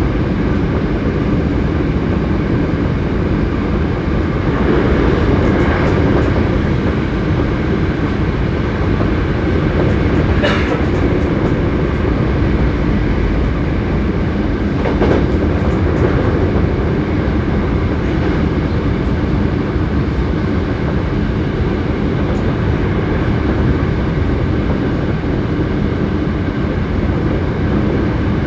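Hankyu 7300 series electric train running at speed: steady rumble of wheels on rail and traction equipment, with a brief higher-pitched sound about ten seconds in. The car is one the recordist singles out for its unusual running noise.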